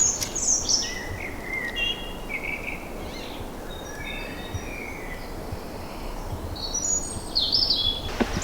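Several woodland songbirds singing, with short, bright, high-pitched phrases overlapping, busiest at the start and again near the end, over a steady low background hiss.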